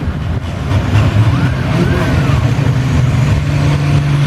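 International Harvester 966 pulling tractor's engine running at the start of a pull, a low drone that settles into a steady, stronger note about three seconds in.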